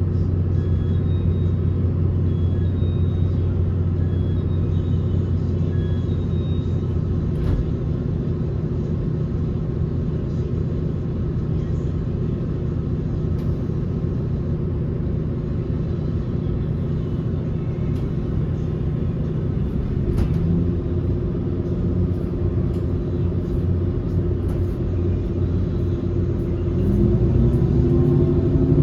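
Electric train running sound: a steady low hum while standing, then rising whines from the traction motors from about twenty seconds in as the train starts and accelerates, growing louder near the end.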